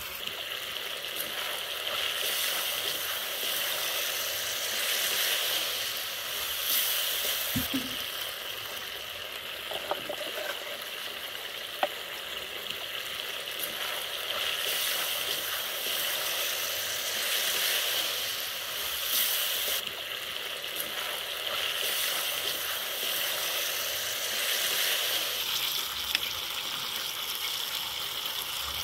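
Chicken, onions and peppers sizzling steadily in a black pan over a wood fire, with a few sharp clicks over the top.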